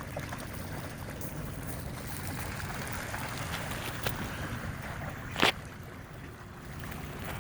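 Outdoor wind noise over a low steady rumble, with one brief sharp sound about five and a half seconds in.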